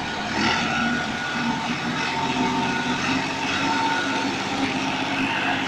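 Swaraj 855 tractor's diesel engine running steadily under load while pulling a harrow through the soil.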